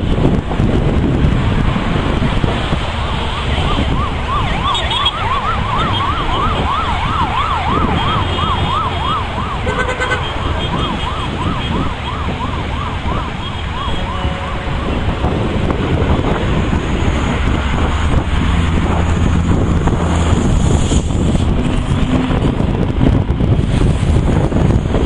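A siren sounding in a fast yelp, its pitch rising and falling about three times a second, over a steady low rumble of wind noise. It starts a few seconds in and fades out about halfway through.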